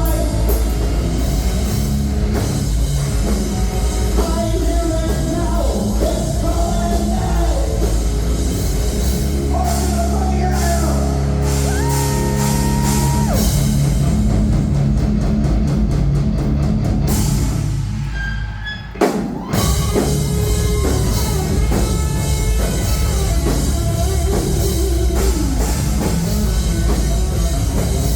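Live heavy rock band playing loud: distorted electric guitars, bass, a drum kit and singing. About 18 seconds in the music briefly thins and drops, then a sharp hit brings the full band back in.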